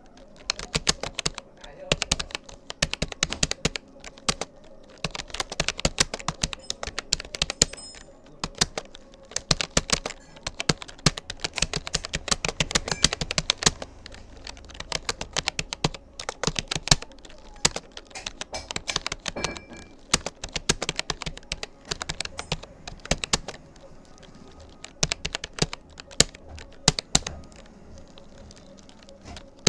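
Fast touch-typing on a Rapoo computer keyboard: rapid, irregular keystroke clicks in runs, broken by brief pauses.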